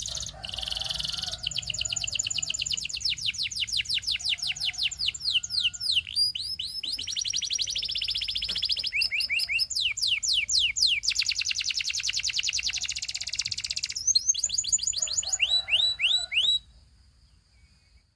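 A canary singing a fast, rolling song: long trills of rapidly repeated, high down-slurred notes, switching to a new trill every couple of seconds. The song stops abruptly near the end.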